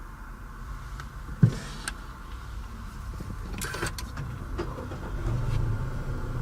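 Handling noises inside a car's cabin: a sharp thump about a second and a half in, then scattered clicks and a short rustle, over a steady low hum that grows a little louder near the end.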